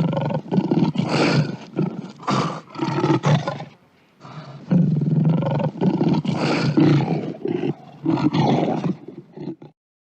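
Lion roaring in two bouts of repeated heavy roars, with a short pause about four seconds in. The sound stops abruptly just before the end.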